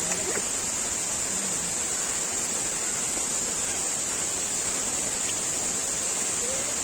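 Steady rushing of water from a waterfall, with a constant high hiss over it.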